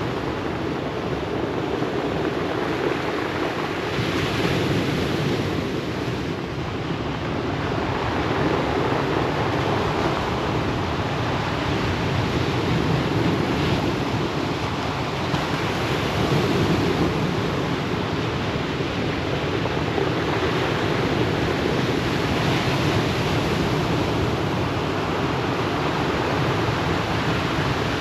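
Ocean surf breaking and washing over a pebble beach: a steady rushing wash that swells and eases every few seconds.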